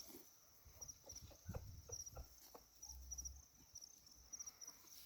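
Faint cricket chirping: short high chirps repeating steadily, with a few soft taps.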